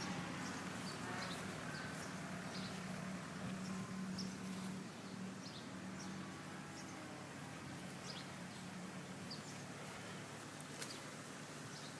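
Birds chirping in short, scattered calls over a steady low hum that fades somewhat about halfway through.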